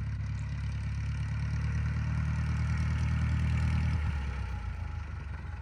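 Light-aircraft piston engine running at low power on the ground, swelling slightly, then throttled back about four seconds in.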